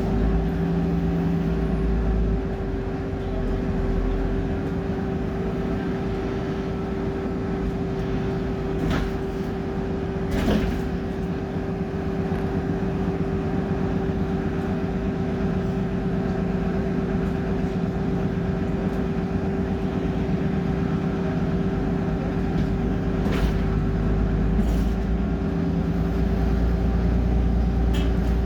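Cummins diesel engine of a BMC Procity city bus running, heard from inside the bus: a steady low rumble with a constant whining tone over it, and a few short clicks or rattles.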